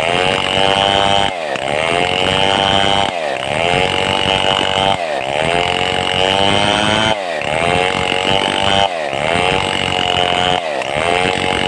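Stihl 070 two-stroke chainsaw running at high revs, its pitch dipping sharply and climbing back about every two seconds.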